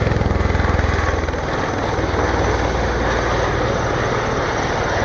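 Helicopter sound effect: a steady, fast rotor chop over engine noise with a low hum.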